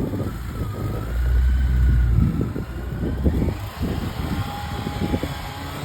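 Yamaha FJR1300 motorcycle's inline-four engine running at low speed, with an uneven low rumble and scratchy handling or wind noise on the microphone.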